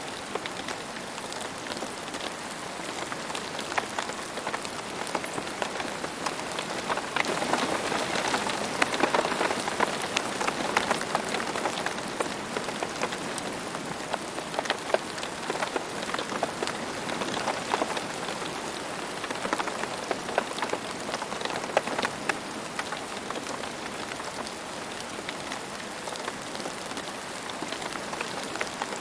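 Steady rain falling on a surface, with many distinct drops pattering. The rain grows heavier for a few seconds about a quarter of the way in, then eases back.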